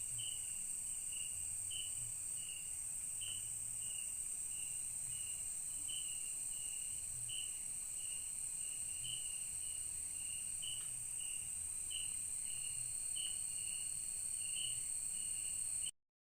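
Night insects such as crickets droning steadily and high-pitched, with a short chirp repeated about once a second. The sound cuts off abruptly near the end.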